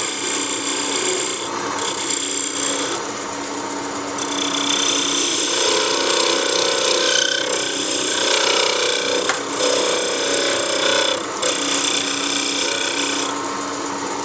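Wood lathe running with a steady hum while a chisel cuts the spinning wood in passes, a hissing scrape that stops and starts. The cutting eases off for about a second and a half a few seconds in, and again near the end.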